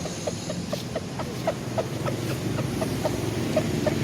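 Chicken giving a run of short clucks, about three a second, over a steady low rumble.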